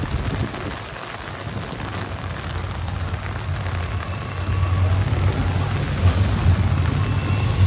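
Heavy rain falling steadily, with a low rumble that grows louder about halfway through.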